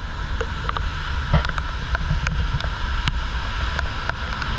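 Wind rumbling and buffeting on a GoPro microphone in a typhoon, with scattered sharp ticks like raindrops striking the camera or an umbrella.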